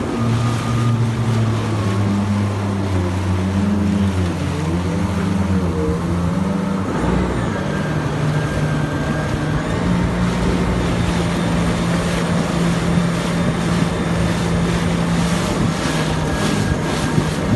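Jet ski engine running under way, its pitch wavering for the first few seconds, then settling to a steady drone over a constant rush of wind and water.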